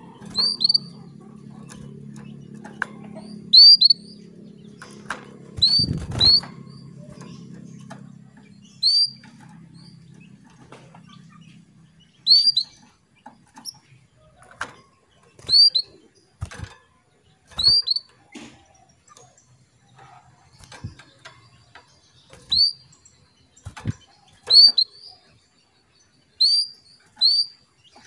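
Female canary giving repeated short, high call notes, one every second or two, the contact call that draws a male canary into song. Soft clicks sound between the calls, and a low steady hum runs through the first ten seconds or so.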